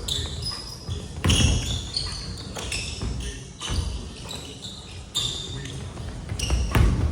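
Basketballs bouncing on a hardwood gym floor in irregular thuds, with short high-pitched squeaks scattered between them.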